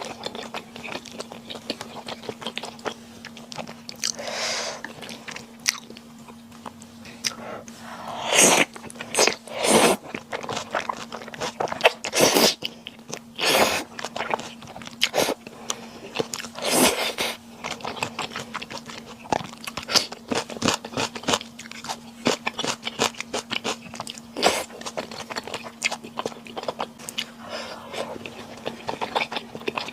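A person chewing and biting food close to the microphone, with dense wet clicks throughout and several louder bites between about eight and seventeen seconds in. A faint steady low hum sits underneath.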